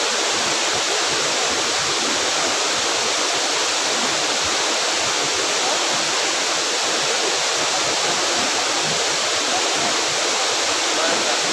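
Waterfall crashing steadily, an unbroken rush of falling water.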